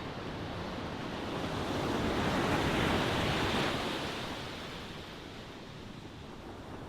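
Ocean waves washing onto a shore: a steady surf hiss that swells into one breaking wave about two to three seconds in, then eases back.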